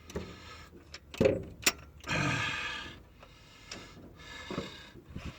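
Hand tools working on an engine's cylinder head bolt: a socket wrench clicking and metal clinking, with a couple of sharp knocks and a short scrape as the socket is fitted onto the bolt.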